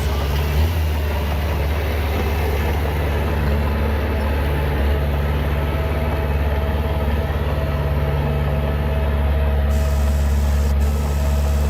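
Heavy diesel engine of an earthmoving machine running steadily at an even, low pitch.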